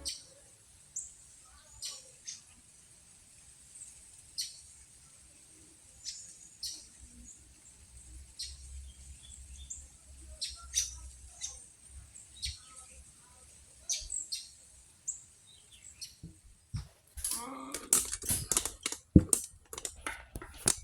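Sparse short high bird chirps every second or two. About three-quarters of the way through, a flurry of clicks and metal clinks with one sharp knock comes as the freshly honed dirt bike cylinder is handled.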